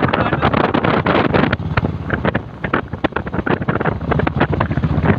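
Wind buffeting the microphone on a moving motorcycle, gusty and uneven, with the engine running steadily underneath.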